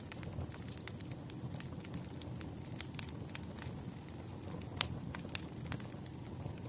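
Burning firewood crackling: irregular sharp pops over a low, steady rumble of the fire. The loudest pop comes a little under five seconds in.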